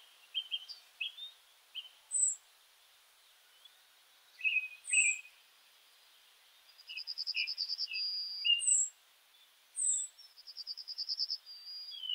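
Birds chirping: a string of short high chirps and whistles, with two fast trills in the second half.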